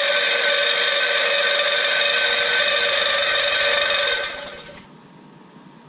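Reciprocating saw (Sawzall) cutting through the Ford Escape's steel muffler piping. It runs steadily, then winds down and stops about four and a half seconds in.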